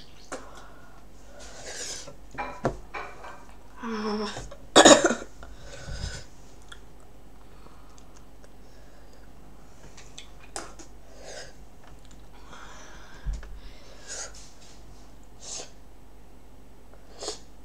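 A man coughing, clearing his throat and breathing sharply, with short mouth clicks between. This is his reaction to the burn of a raw habanero pepper he is chewing. The loudest is a sharp cough about five seconds in.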